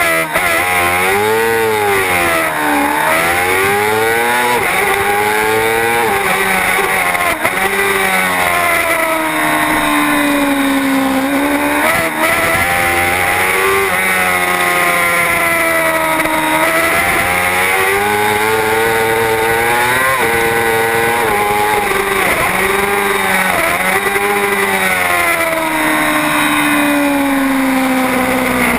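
Superbike racing motorcycle engine running hard, its pitch repeatedly climbing and then dropping in sudden steps as it changes gear and slows for corners.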